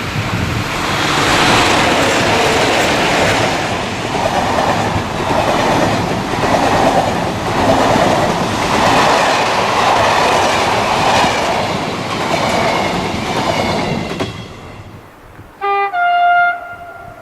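A train passing close by, a loud rushing rumble with the wheels clattering rhythmically over rail joints, which cuts off abruptly near the end. A moment later a train horn sounds two short notes.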